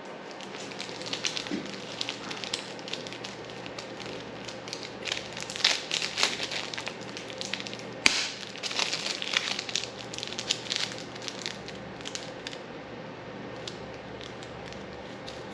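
Irregular crackling and crinkling handling noises with scattered clicks, and one sharp click about eight seconds in.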